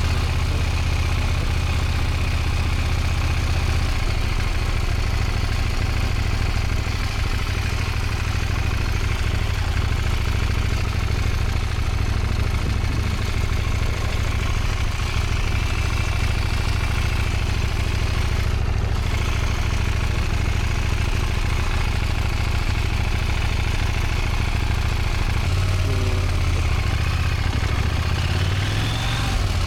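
Motorcycle engine running steadily at low revs, its note shifting about four seconds in and again near the end.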